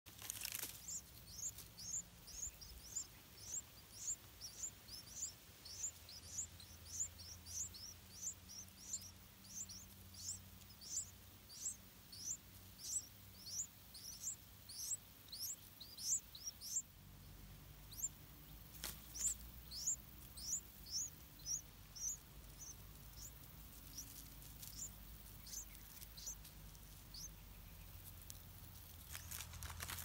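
Yellow-vented bulbul nestlings begging: a rapid run of thin, high peeps, about two a second, each a short falling note. The peeps stop briefly about halfway through, then go on more sparsely and die away near the end, with a sharp click or two in between.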